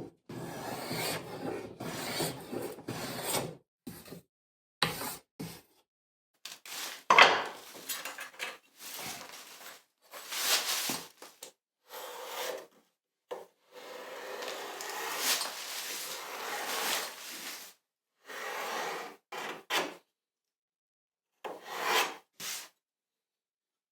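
A hand tool scraping along a wooden moulding in a series of strokes, some brief and some several seconds long, with silent gaps between them.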